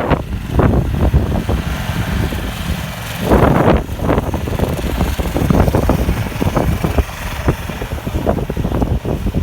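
Strong blizzard wind buffeting the microphone in gusts, a loud low rumble with repeated swells.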